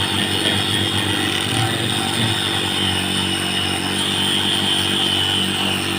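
A motor-driven power tool running steadily, with a continuous high whine over a steady motor hum.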